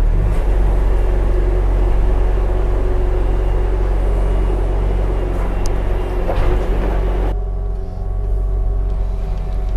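Diesel engine of a Bobcat T650 compact track loader running steadily at working speed, powering a hydraulic Ramsplitter log splitter. About seven seconds in the sound dulls abruptly, its higher part dropping away while the low engine drone goes on.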